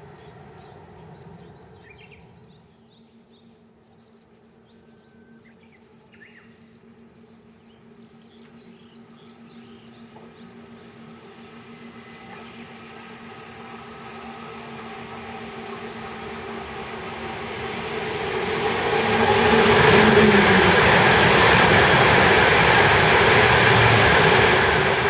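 A train approaching, growing from faint to loud over about ten seconds and passing close by at full volume. Faint bird chirps are heard at first, before the train draws near.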